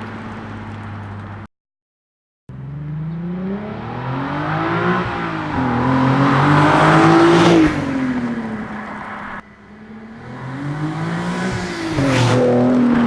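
Nissan 370Z's 3.7-litre V6 through a Fast Intentions aftermarket exhaust, driving past twice under acceleration. Each time the note climbs as it revs, is loudest as the car passes, then drops in pitch as it pulls away. A steady engine note opens, broken by a second of total silence about a second and a half in.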